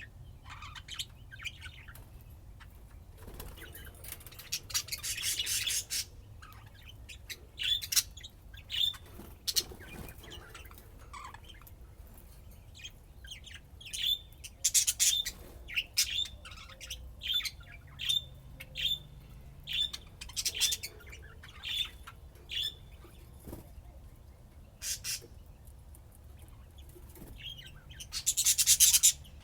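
Pet budgerigars chirping and chattering in a string of short, high chirps, with two longer, louder harsh bursts, one a few seconds in and one near the end.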